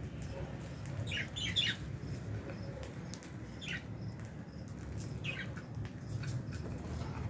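Lovebirds in an aviary giving short, sharp chirps: a quick cluster about a second in, then single calls near the middle and again a little later, with scattered small clicks and rustles over a steady low hum.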